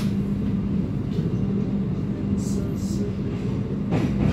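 Passenger train running on the rails: a steady low rumble with a hum, and two sharp clacks about four seconds apart.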